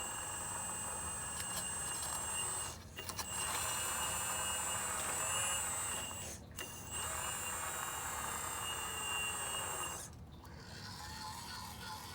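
MAGOM HRC 330D CAT radio-controlled excavator's motors running with a steady high whine, cutting out briefly three times as the machine is worked.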